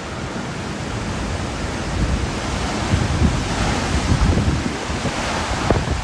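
Hurricane wind gusting hard, with low rumbling buffets of wind on the microphone; the rush of the gust grows stronger in the second half.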